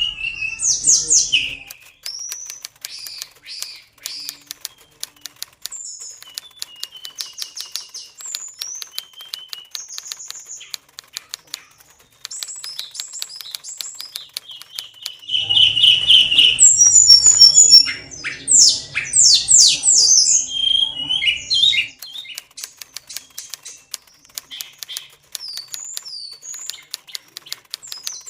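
Oriental magpie-robin (kacer) singing in short phrases of whistles and chirps with gaps between them, then a louder stretch of rapid sweeping notes about two-thirds of the way through. A fast run of faint clicks goes on underneath.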